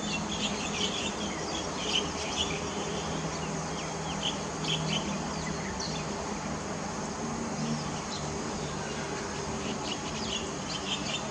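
Small birds chirping and twittering in quick, irregular calls, thinning out in the middle and picking up again near the end, over a steady low hum.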